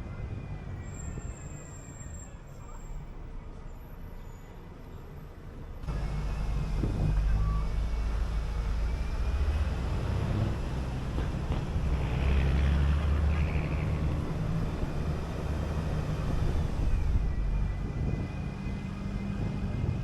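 City bus on the move, engine and road rumble heard from on board; the low rumble steps up sharply about six seconds in and stays louder.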